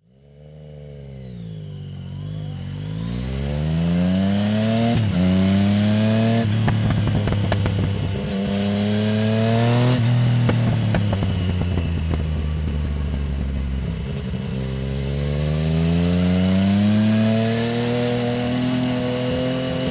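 Yamaha Tracer 900 GT's inline three-cylinder engine through a full Roads Italia aftermarket exhaust with no dB-killer, on the move: the engine note rises through the revs with sudden drops at gear changes about five, six and a half and ten seconds in, runs steadily for a few seconds, then climbs again under acceleration.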